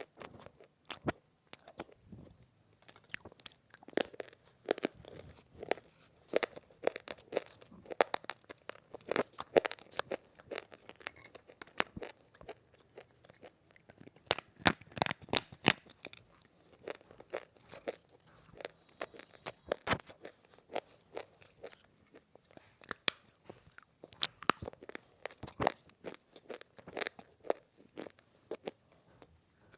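Close, crunchy biting and chewing of dry, semi-roasted multani mitti (fuller's earth clay): irregular sharp crunches and crackles, bunched in clusters.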